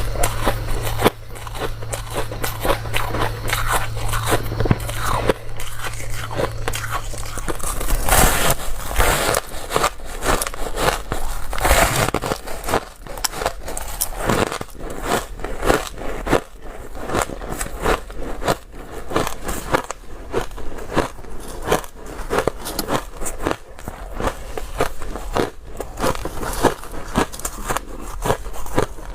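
Close-up biting and chewing of hard ice: rapid, irregular crunches and cracks, with several loud bites about 8 and 12 seconds in. A low steady hum sounds under the first seven seconds or so.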